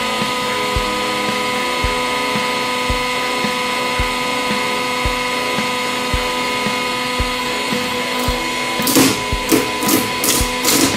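Hydraulic press running with a steady hum and a regular low knock about twice a second. From about nine seconds in come a run of loud, sharp cracks, which fit the Nokia 3310 starting to break under the press.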